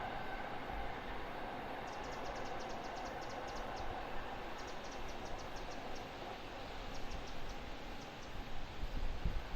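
Class 66 diesel freight train's running noise slowly fading as it recedes. Runs of rapid high ticking come and go through the middle, and low wind buffets hit the microphone near the end.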